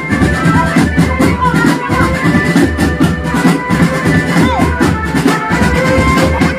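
Drum band music: a steady beat of drums with a melody of held notes over it.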